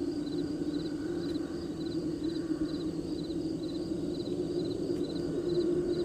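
Field crickets chirping in a steady rhythm, short three-pulse chirps about two or three times a second, over a constant low background din.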